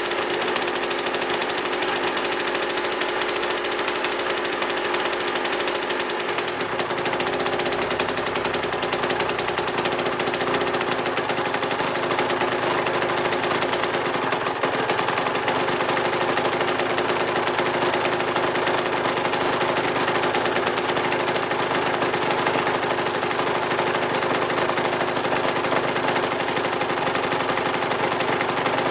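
Aprilia RS 125's Rotax 122 two-stroke single-cylinder engine running steadily, warming up after a rebuild, with a slight change in its note about six seconds in.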